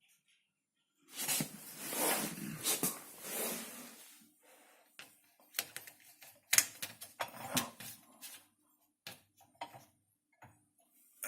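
Handling sounds at a dishwasher: a few seconds of rustling, then a run of separate sharp clicks and knocks, likely a new Finish dishwasher freshener being unwrapped and clipped into place.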